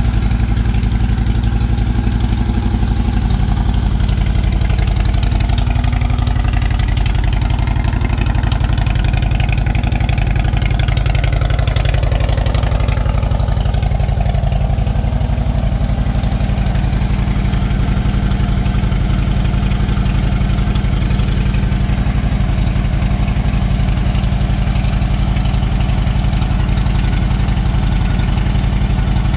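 A 2010 Harley-Davidson motorcycle's V-twin engine idling steadily.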